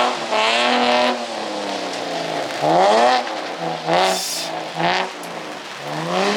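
Car engine revving up and falling back several times in quick succession as the car is drifted on a wet track. There is a brief burst of high hiss about four seconds in.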